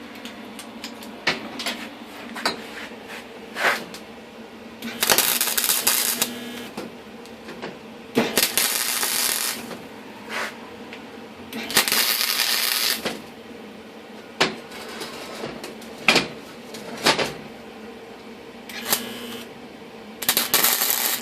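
Arc welder laying short tack welds on a steel two-stroke expansion chamber: four bursts of welding hiss, each about a second or so long, with clicks and taps of the metal and torch in between.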